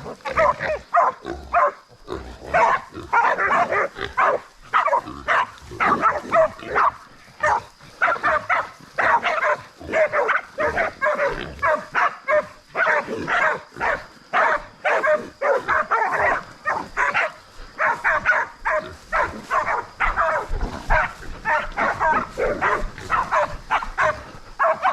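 Feral boar held by hunting dogs, squealing over and over, with dogs barking amid the squeals.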